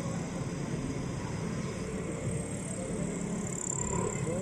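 Car engine idling steadily, heard from inside the cabin as a low rumble.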